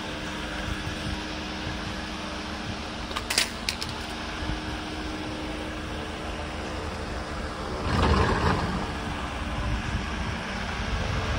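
Car engine idling with the hood open: a steady mechanical hum, with a few sharp clicks about three seconds in and a louder rush of noise around eight seconds.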